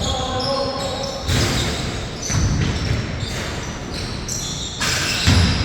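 Basketball bouncing on the court during play, a few dull thuds with the loudest near the end, amid short, high squeaks of sneakers on the floor.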